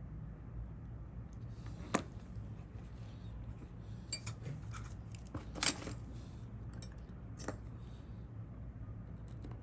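Small metal repair tools and phone parts clicking and clinking in a few sharp light taps, the loudest a little past the middle, over a steady low hum.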